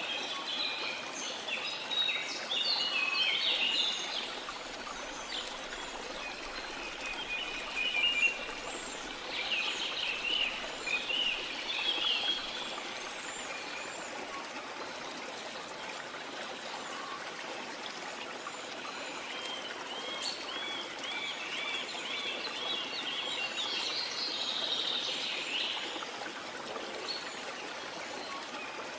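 Steady rush of a waterfall with rainforest birds singing over it in several bursts of chirps and short phrases, one of them a quick run of repeated notes.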